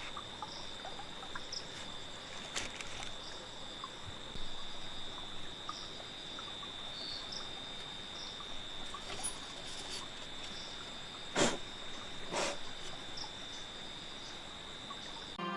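Forest ambience of insects, crickets or the like, calling in one steady high-pitched drone. Near the end come two sharp knocks about a second apart.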